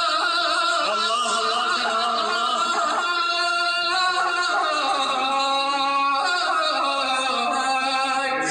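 A male reciter chanting a melismatic Arabic latmiya, in long held notes that waver and bend in pitch.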